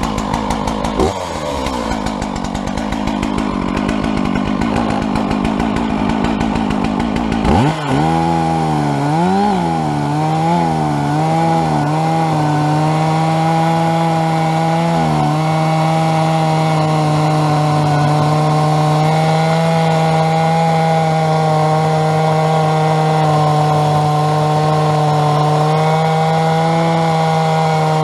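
Stihl two-stroke chainsaw on a chainsaw mill, running low and rough for the first several seconds. About 7 s in it revs up sharply, and its pitch rises and falls several times. From about halfway through it holds steady at full throttle, milling through a spruce log into boards.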